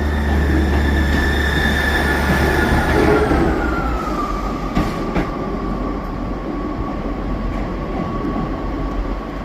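Class 158 diesel multiple unit running, its whine holding steady at first, then sliding down in pitch about three seconds in and settling at a lower steady note as the low engine hum drops away. Two sharp clicks about five seconds in.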